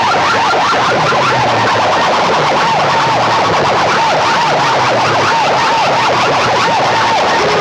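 Siren-style electronic sound effects blasted at full volume through a DJ competition sound system's loudspeakers. A fast-repeating rising sweep gives way to a warbling tone that dips in pitch about twice a second, and a falling glide begins near the end.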